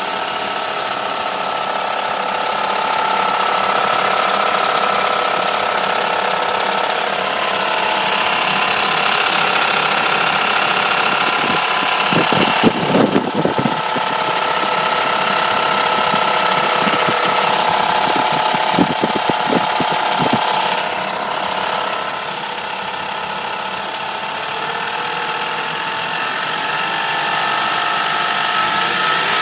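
Mercedes W210 E430's 4.3-litre V8 running with a rattling noise, with clusters of sharp knocks about twelve seconds in and again around nineteen to twenty seconds in. The owner cannot place the rattle and suspects the alternator, another pulley, the timing chain tensioner or low oil level.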